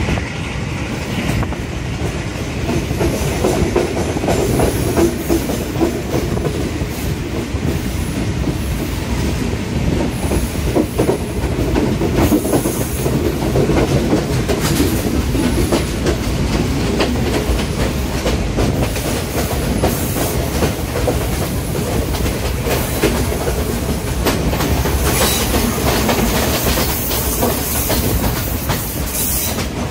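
Diesel-hauled passenger train running uphill, heard from an open carriage window: steady rumble and clatter of the coaches' wheels over the rail joints, with a faint high wheel squeal coming and going.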